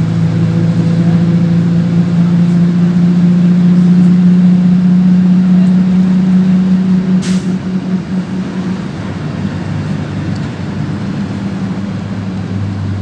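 PAZ 32054 bus engine pulling steadily, its hum growing louder for the first few seconds, then easing off after about seven seconds. A brief hiss sounds at about the same point.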